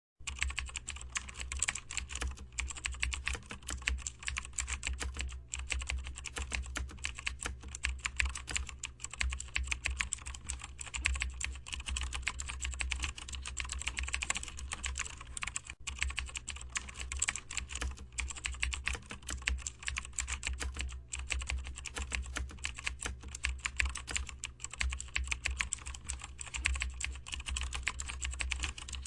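Continuous fast typing on a computer keyboard, many irregular key clicks a second with only brief pauses.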